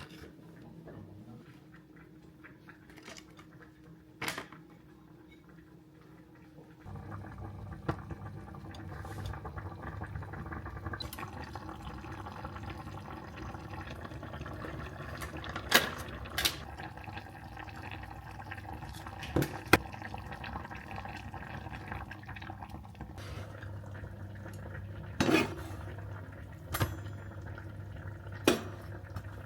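Water starts running steadily from a kitchen tap about seven seconds in, with dishes and utensils clinking sharply several times over it.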